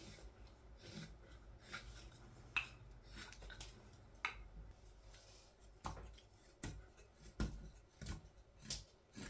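Carving knife taking slicing cuts through green wild cherry wood: a series of short, sharp cuts, sparse at first and about one a second in the second half.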